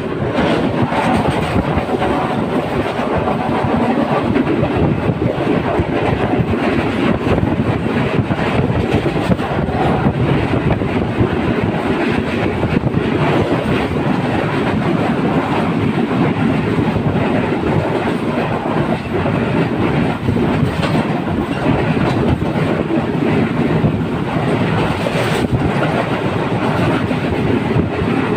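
Moving train: the steady rumble of wheels on the rails, with repeated clacks as the wheels cross rail joints.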